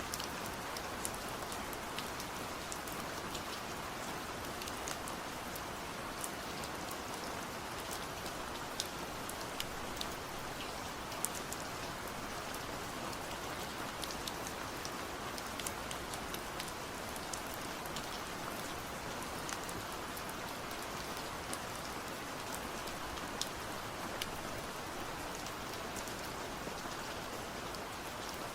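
Steady rain: an even hiss with frequent sharp drops ticking on a surface, scattered irregularly throughout.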